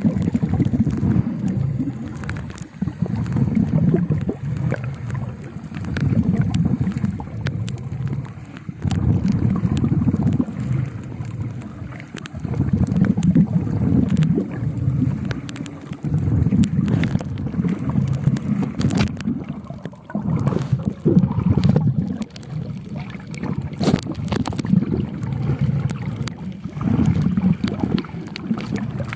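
Muffled underwater water movement swelling and fading every couple of seconds, with scattered sharp clicks and crackles throughout.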